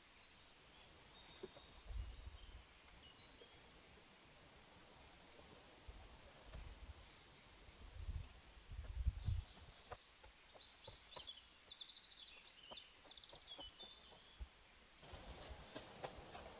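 Faint chirping of small birds, with a few brief low rumbles. About fifteen seconds in, a run of sharp clicks and crackles begins.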